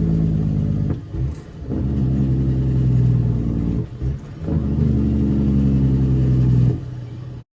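Straight-piped CAT C13 diesel in a Kenworth W900B dump truck running hard under load. The exhaust note breaks off briefly twice, the pattern of gear changes, and falls much quieter near the end.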